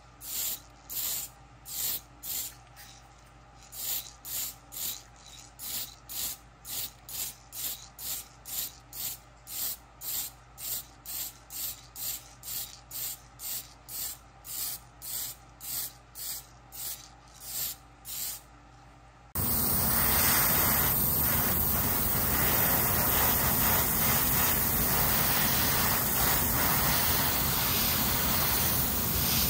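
Mr. Super Clear UV Cut aerosol spray can hissing in short, quick bursts, about two a second, as clear coat goes onto a model car body. About two-thirds of the way through, this gives way abruptly to the louder, steady hiss of an airbrush spraying paint.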